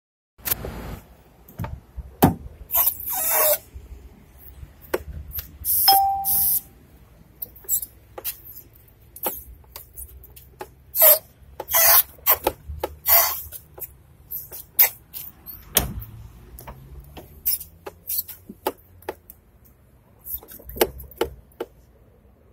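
A door creaking and squeaking again and again as it is worked back and forth, in short irregular bursts. The creak persists after lubrication, and the owner takes it to come from inside the door.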